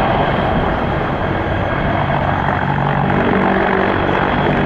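Sikorsky CH-53K King Stallion heavy-lift helicopter flying close by: loud, steady rotor and turbine noise. A low hum grows stronger about halfway through.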